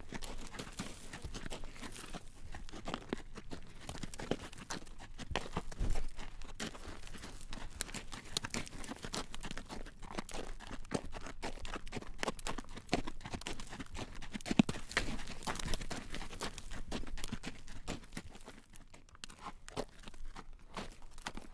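Horse's hooves clip-clopping on a road at a walk as it draws a carriage: a steady run of clacks, with a couple of louder knocks, one about six seconds in and one past the middle.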